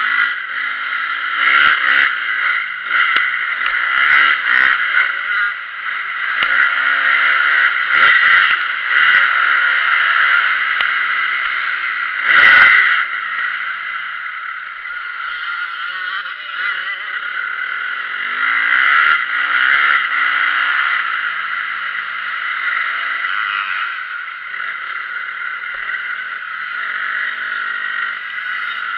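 Motocross dirt bikes running on a track, their engines revving up and falling off again and again as they ride, with a loud knock about twelve seconds in.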